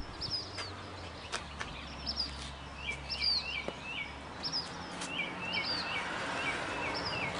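Small birds chirping over and over: short high calls and runs of quick down-slurred notes, with a faint low hum beneath and a few light clicks.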